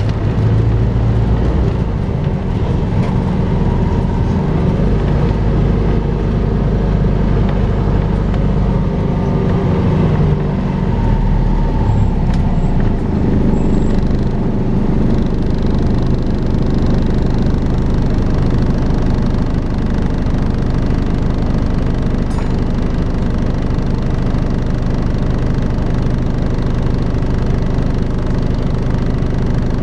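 Volvo B5LH hybrid double-decker bus running, making its 'hoovering' sound: a steady, vacuum-cleaner-like drone over the low drivetrain hum. A fainter whine falls in pitch between about 4 and 11 seconds in.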